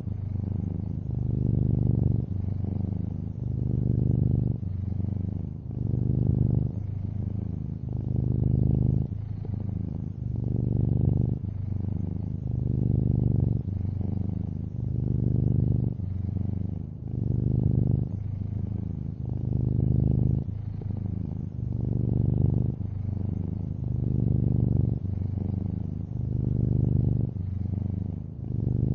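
Long-haired orange tabby cat purring steadily and close up, a low rumble that swells and eases with each breath, about once every two seconds.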